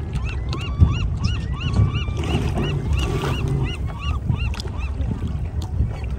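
A bird calling in a fast series of short rising-and-falling notes, about three a second, over a low rumble.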